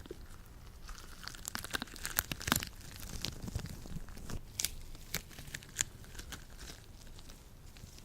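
Latex-gloved hands working sticky lotion: irregular sticky clicks and peeling crackles as the gloves press together and pull apart, busiest through the middle and thinning out near the end.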